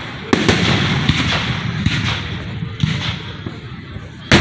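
Fireworks going off close by: a sharp bang about a third of a second in, a few weaker bangs and crackles, and the loudest bang near the end.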